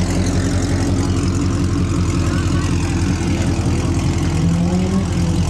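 Dodge Challenger's engine idling, loud and steady with a deep, pulsing rumble.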